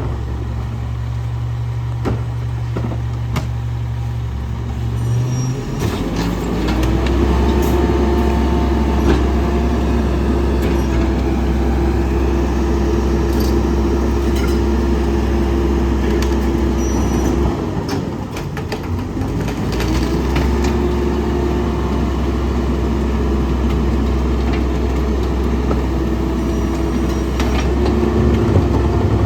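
Garbage truck's diesel engine stepping up from idle to a steady higher speed about five seconds in, as it does to drive the compactor hydraulics. It drops back briefly just before halfway and then rises again, with scattered metal clanks.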